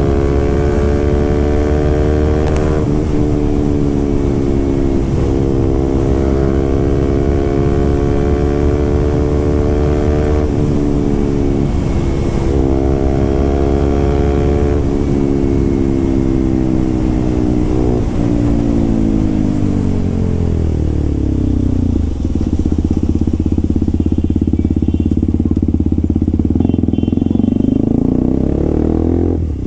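Motorcycle fitted with an SC Project aftermarket exhaust, running under way: the engine note climbs and breaks off several times in the first half as it shifts through the gears. About two-thirds through it winds down and settles into a low, steady note.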